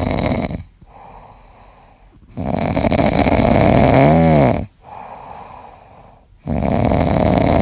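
A sleeping pet snoring loudly in a slow rhythm: long snores about four seconds apart with quieter breaths between them. The middle snore ends in a brief wavering whistle.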